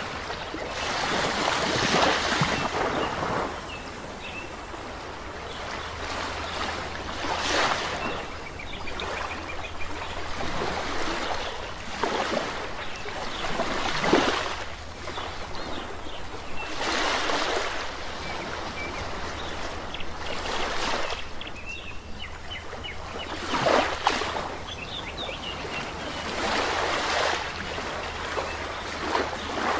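Sea waves washing onto a shore, one surge every three to four seconds, with faint bird chirps between them.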